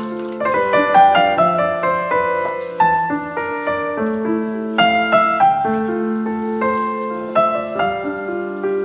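Background piano music: a melody of held notes over lower chords.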